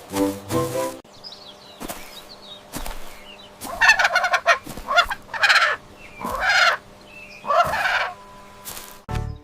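Farm poultry calling: four loud calls, each about half a second long, in the second half. Faint high chirps come before them, and music runs briefly at the start.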